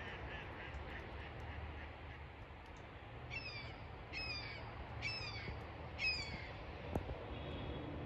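A bird giving four harsh, downward-sliding calls, about one a second, starting a few seconds in, over steady low outdoor rumble; a single sharp click near the end.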